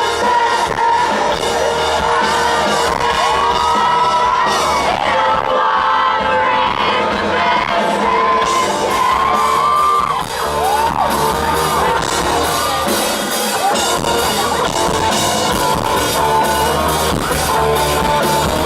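Live rock band playing a song at a sound check, with amplified singing over a steady drum beat.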